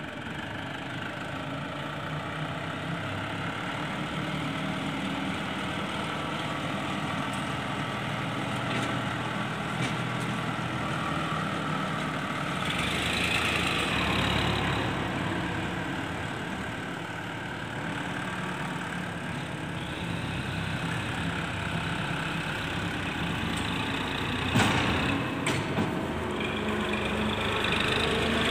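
Sonalika 50 hp tractor's diesel engine running steadily. About 13 seconds in it grows louder for a couple of seconds, then settles back, with a few sharp knocks near the end.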